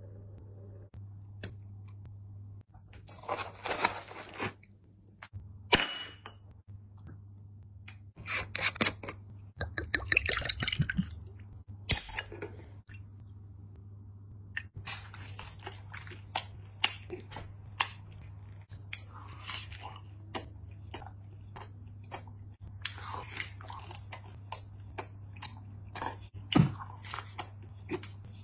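Close-miked chewing and crunching of crisp food, heard as many quick sharp clicks, more frequent in the second half, over a steady low hum.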